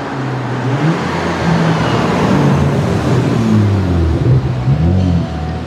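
BMW 640i's turbocharged 3.0-litre straight-six accelerating hard. The engine note climbs and falls back several times as the car pulls away.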